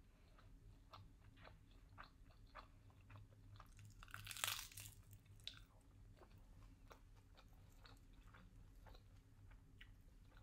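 Quiet close-miked chewing of a tuna-mayo triangle kimbap: small moist clicks of rice and crisp seaweed in the mouth, with one louder, longer crunch about four seconds in.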